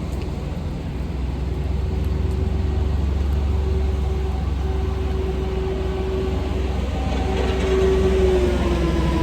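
Semi-truck running on the road, heard from the cab: a steady low engine and road rumble with a whine above it that swells later and drops in pitch near the end.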